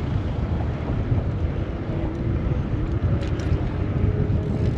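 Wind buffeting the microphone of a moving bicycle, a heavy uneven rumble, with faint traffic sound beneath it.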